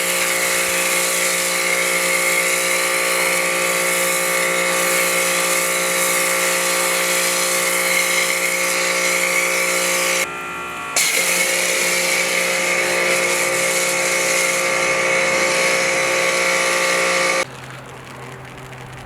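Power tool's electric motor running steadily at a constant pitch, stopping for about half a second roughly ten seconds in, then starting again before cutting off near the end.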